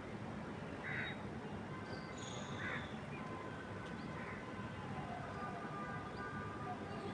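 Wind moving through trees as a steady low rush, with birds calling over it: two short calls about a second and nearly three seconds in, and a few thin, high chirps between them.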